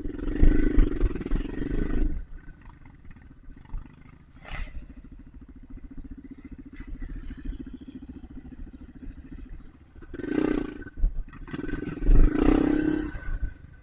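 Dirt bike engine running at low revs on the trail, with loud surges of throttle near the start, about ten seconds in and again a couple of seconds later.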